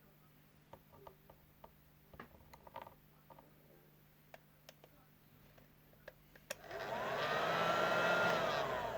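A series of light clicks and taps, then a small electric motor switching on: its whine rises in pitch, holds for a second or so and winds down near the end.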